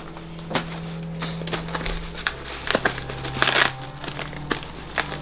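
Crinkling and rustling of material being handled, with scattered light knocks and a louder crinkly burst about three and a half seconds in.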